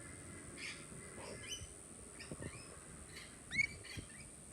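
Birds chirping: a scatter of short, high chirps, with one louder rising call about three and a half seconds in.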